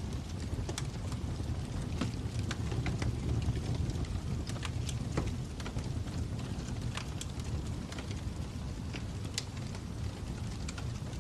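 Wood fire crackling: a steady low rumble of burning with irregular sharp pops and snaps, several every second.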